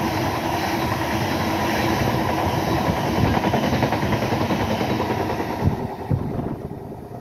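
Covered freight wagons of a passing freight train rolling by, their steel wheels running on the rails. The noise drops away about six seconds in as the last wagon passes and recedes.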